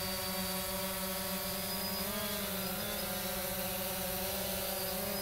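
DJI Phantom 2 Vision quadcopter hovering, its four propellers buzzing steadily, the pitch wavering slightly a couple of times as the motors adjust.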